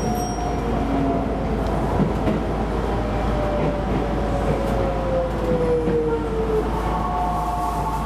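Keisei electric train running on its rails with a steady rumble, while a thin motor whine falls slowly in pitch over about six seconds as the train slows. A cluster of higher whining tones comes in near the end.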